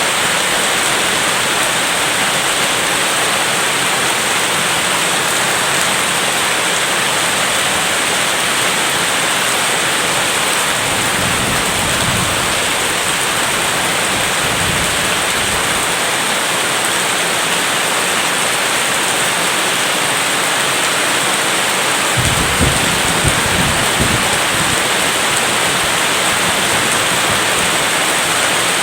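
Steady heavy rain, a dense even hiss. A low thunder rumble comes in about a third of the way through, and a louder one starts suddenly about two-thirds through, then fades.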